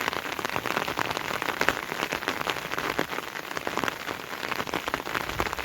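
Heavy rain falling, a steady dense patter of many individual drops striking.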